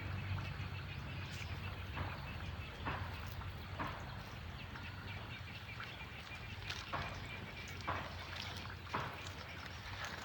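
Irregular sharp knocks, roughly one a second, over a low steady hum.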